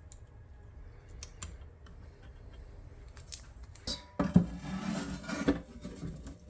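Metal parts of a small electronics enclosure being handled during reassembly: faint small clicks at first, then louder rubbing and handling with a few knocks from about four seconds in.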